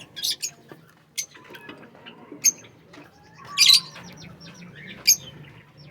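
A flock of aviary cage birds calling over one another in sharp, high chirps, with a louder burst of calls about three and a half seconds in.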